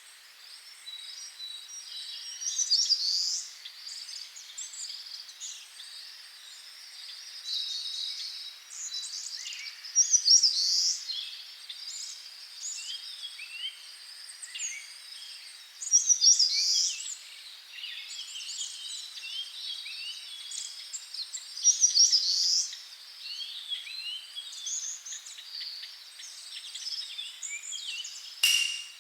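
Wild birds singing and chirping in a busy chorus, with one louder song phrase recurring four times, about every six or seven seconds. A thin, steady high tone runs above the birdsong for much of the time.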